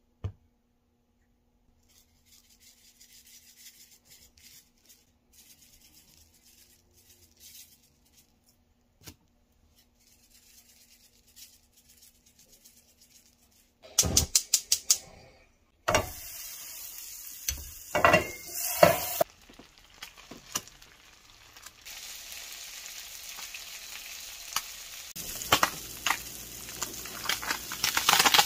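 A gas stove burner's igniter clicks rapidly for about a second. Then surf perch fillets fry in oil in a pan, a steady sizzle with several louder bursts and the scrape of a spatula, growing fuller and crackling near the end.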